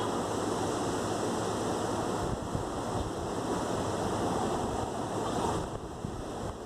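Steady rain falling during a light thunderstorm, an even hiss with no thunderclap.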